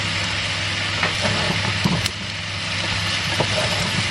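Vegetables sizzling in an electric frying pan as they are stirred and tossed with a wooden spatula, with a few light knocks and scrapes of the spatula and a steady low hum underneath.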